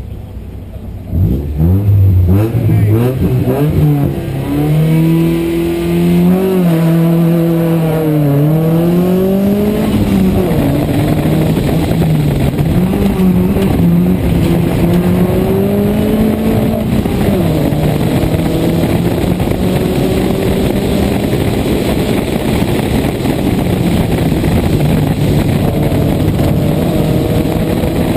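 Toyota Corolla 1.6 rally car engine, heard from inside the car. About a second in it launches hard from a standstill, the pitch climbing and dropping back at each upshift. It then runs at high revs through the bends, rising and falling with the throttle.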